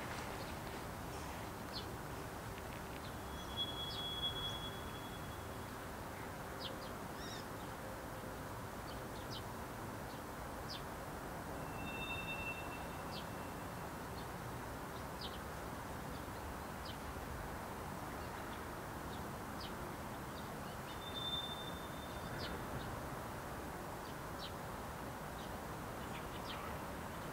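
Steady low rumble of a slowly moving freight train of tank cars, with many short high chirps and a few brief high whistling tones, about 4, 12 and 21 seconds in.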